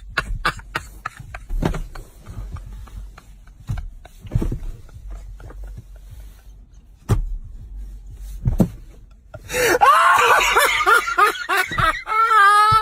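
Chewing and mouth clicks on a mouthful of chicken nuggets, with scattered knocks and a low rumble, then laughter for the last few seconds, ending in a held high-pitched laughing note.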